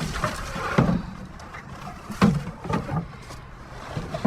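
Junk being handled and shifted inside a dumpster: a few irregular knocks and clatters with rustling in between.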